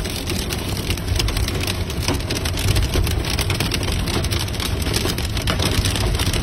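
Heavy downpour drumming on a car's roof and windscreen, a dense patter of drops, heard from inside the car over a steady low rumble from the car itself.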